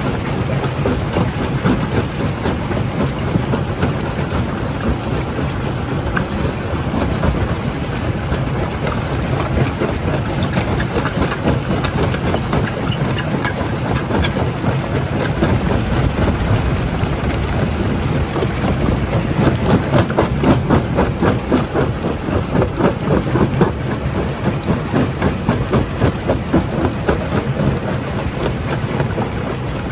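Primary jaw crusher running under load, with a steady heavy machine noise and a dense clatter of rock being crushed and rattling through. The rattling grows busier and louder for a few seconds just past the middle.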